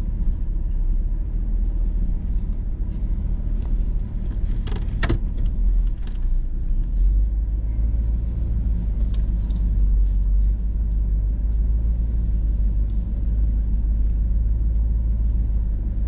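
Hummer H2's V8 running with a steady low rumble, heard from inside the cab, growing heavier about seven seconds in. A single sharp knock sounds about five seconds in.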